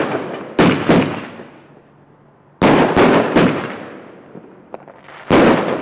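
Fireworks going off: sharp, loud bangs in clusters, each fading away over about a second. There is a pair of bangs near the start, a quick run of three about two and a half seconds in, and one more near the end.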